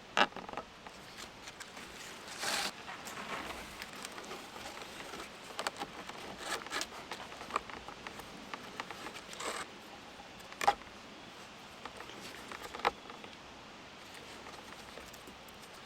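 Handling noise of hands working with cord and sticks: scattered rustling and light clicks, with a few sharper ticks.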